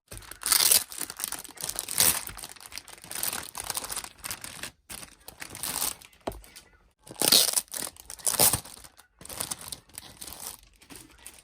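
Packaging crinkling and tearing in irregular bursts with short pauses.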